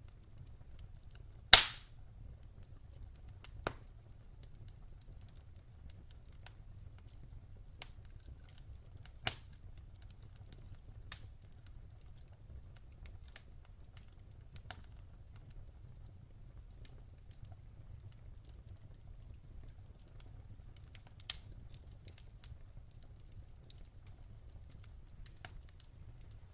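Crackling campfire: wood burning with sparse, sharp pops and crackles. One loud pop comes about a second and a half in and a smaller one near the middle, over a faint, low, steady rumble.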